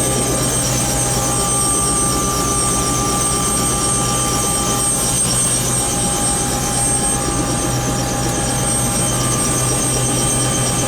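Tour helicopter in flight: a loud, steady drone of the rotor and turbine engine with a constant high whine and an even flutter from the blades.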